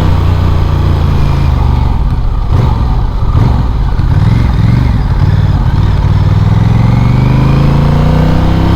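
Motorcycle engine under way, heard from the bike. It runs steadily, the revs dip and waver for a few seconds, then they climb steadily over the last few seconds as it accelerates.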